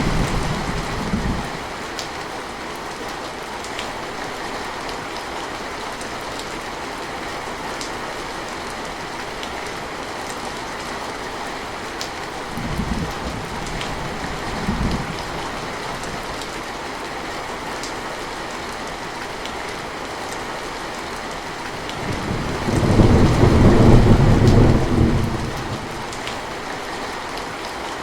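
Steady rain with scattered drop taps. Distant thunder rumbles: one dies away in the first second, two short rumbles come about halfway through, and a longer, louder roll comes about three-quarters of the way in.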